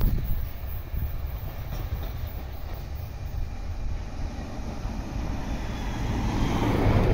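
Sotetsu electric commuter train running on the rails as it moves away, a steady low rumble. Near the end a louder rushing noise builds up.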